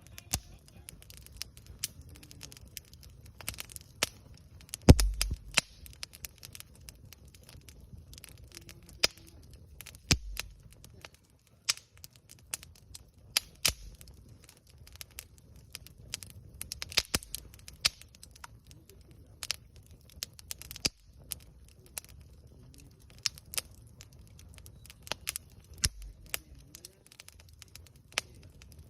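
Wood campfire crackling, with irregular sharp pops from the burning wood. The loudest pop, about five seconds in, comes with a low thud.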